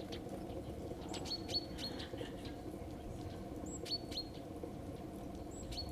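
Tits calling with short, high chirps in three quick groups, over a steady low hum.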